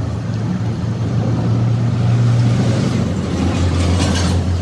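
A motor or engine running steadily with a low hum that drops slightly in pitch a little under three seconds in. A short hiss comes near the end.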